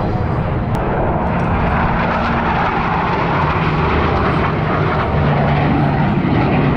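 Blue Angels jet aircraft engines, a steady, loud rumble and roar that grows slightly louder toward the end.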